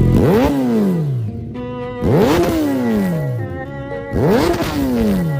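An engine revved through its aftermarket exhaust three times, about two seconds apart. Each rev climbs quickly and then dies away over about a second.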